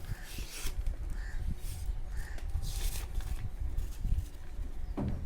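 A sheet of paper rustling and creasing in bursts as it is handled and folded, with three short bird calls about a second apart in the first half.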